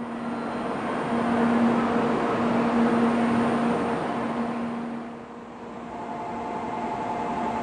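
Shinkansen train noise on a station platform: a broad rushing sound with a steady low hum that swells, fades about five seconds in, then builds again.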